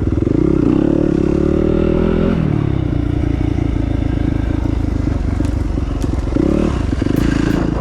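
Dirt bike engine revving, its pitch climbing for about two seconds, then dropping sharply and running lower, with another short rev near the end.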